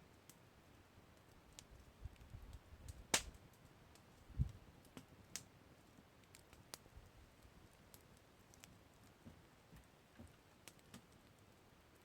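Campfire wood crackling with scattered small pops, one sharper pop about three seconds in followed by a low thump.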